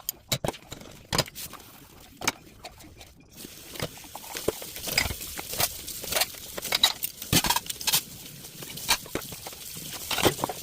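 Irregular clatter of household items being knocked and set down, with a steady hiss from about three seconds in.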